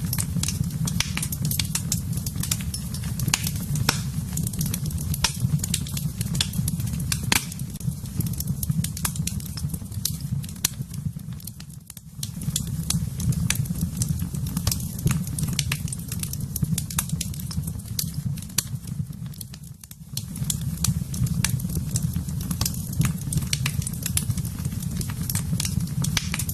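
Fire crackling and popping in a fireplace, with frequent sharp pops over a steady low rumble. The sound dips briefly twice, about halfway through and again later.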